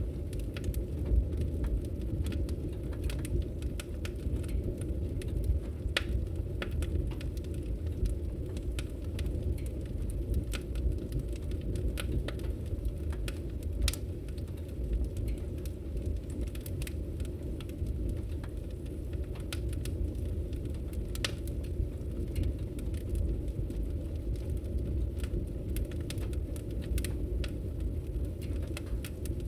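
Wood logs burning in a fireplace, crackling with scattered sharp pops and snaps over a steady low rumble.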